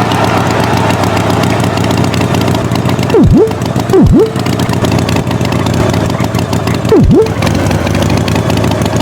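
Tractor engine running steadily, as a cartoon sound effect. Three loud, quick swoops fall in pitch and rise again: one a little after three seconds in, one just after four seconds in, and one about seven seconds in.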